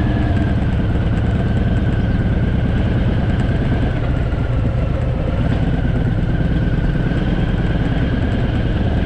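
Harley-Davidson motorcycle's V-twin engine running steadily while riding along the road.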